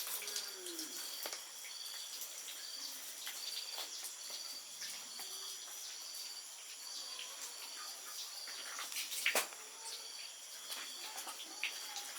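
Outdoor ambience: a short high chirp repeating evenly about twice a second over a steady high insect drone, with a few sharp clicks, the loudest about nine seconds in.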